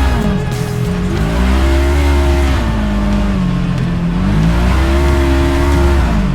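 Side-by-side UTV engine under throttle as it is driven, its pitch climbing and easing off twice.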